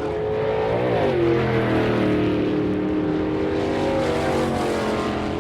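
Drag racing car engine at full throttle on a run: its pitch climbs and drops sharply about a second in, like a gear shift, then holds high and sags slowly.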